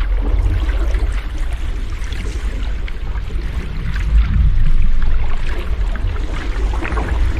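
Ocean waves washing and rushing continuously, with a deep low rumble under a fizzing wash, swelling a little about four seconds in.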